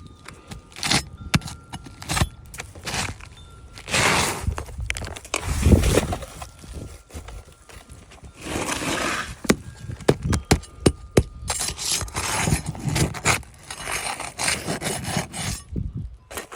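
Hands-on roof shingle work: rough scraping and rubbing as shingles are handled and slid into place, with scattered sharp taps and knocks.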